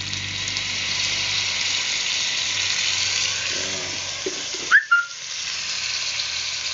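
Chicken feet sizzling in a hot stainless pot as soy sauce is added and stirred in with a ladle. About five seconds in, a short high-pitched squeak, the loudest sound, cuts briefly through the sizzle.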